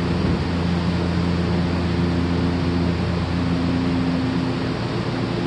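Stationary electric commuter train standing at the platform with its doors shut, its on-board equipment giving a steady drone with several steady low hum tones.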